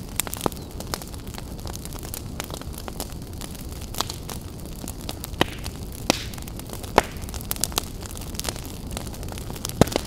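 Fire crackling: a steady low rumble of burning under irregular sharp pops and snaps, about one to three a second, with louder pops near the middle and just before the end.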